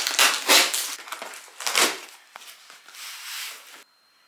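Parcel packaging being torn open and rustled: several loud ripping, crinkling bursts in the first two seconds, then a softer rustle that stops shortly before the end.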